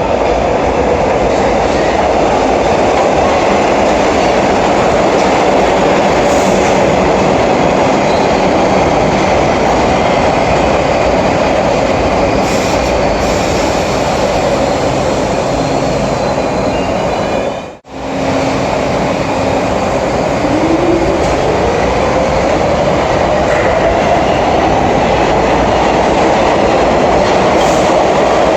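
New York City Subway (3) train running through the 145th Street station, a loud steady rumble of wheels on rail. About two-thirds in, the sound cuts out for a moment, and then a rising whine comes in over the rumble.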